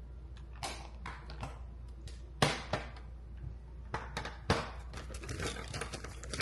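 Small hard objects being handled close by: a string of sharp clicks and taps, the loudest about two and a half and four and a half seconds in, with short scraping rustles between them.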